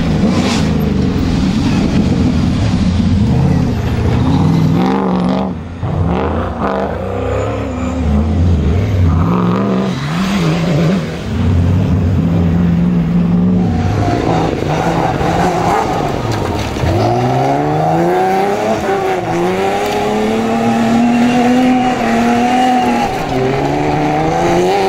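Rally cars racing at full throttle, their engines revving hard, the pitch climbing and dropping with each gear change. From about halfway there are repeated rising runs as a car accelerates up through the gears.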